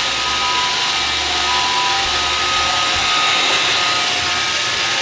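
iRobot Roomba 550 robot vacuum cleaning on a straight run: the steady whir of its vacuum motor and brushes, with a high whine that shifts a little in pitch now and then.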